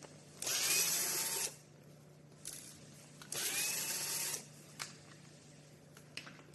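Small electric screwdriver run twice, each time for about a second, its motor whining up to speed and holding, with a few light clicks of small parts in between.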